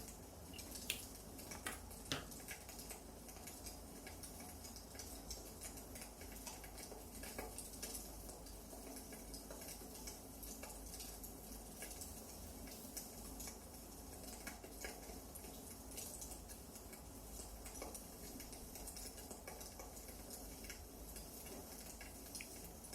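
Firewood burning in a fireplace, crackling: irregular small snaps and pops over a steady soft hiss, with two sharper pops about one and two seconds in.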